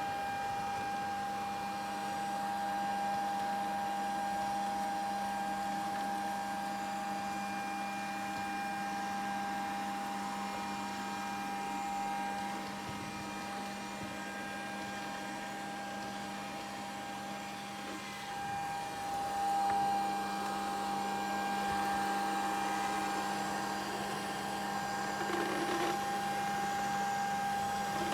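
Grundig VCR 2131 robot vacuum running: a steady motor whine with a constant high tone over the suction noise, swelling briefly past the middle.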